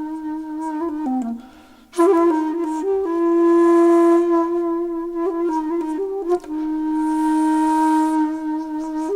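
Background music: a solo flute playing a slow melody of long held notes with sliding pitch bends between them. It breaks off briefly at about a second and a half in.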